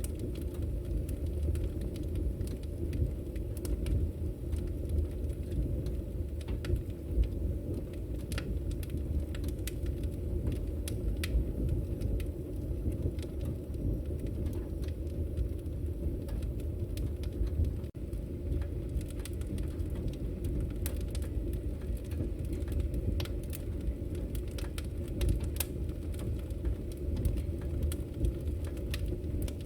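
Wood bonfire burning: a steady low rumble of the flames with frequent sharp crackles and pops scattered throughout.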